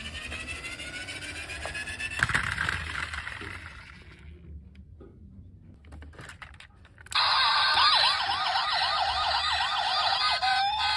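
Electronic siren of a toy emergency vehicle. It starts suddenly about seven seconds in as a loud, fast yelp, rising and falling about three times a second; earlier there are softer rising tones and a knock.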